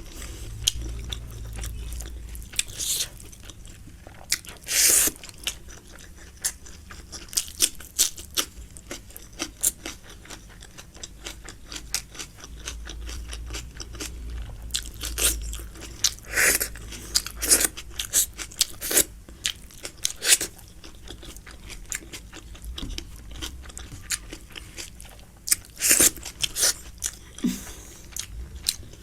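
Close-miked chewing while eating chicken and pork biryani: irregular wet mouth clicks and smacks with short crunchy bites, the loudest about five seconds in and again near the end.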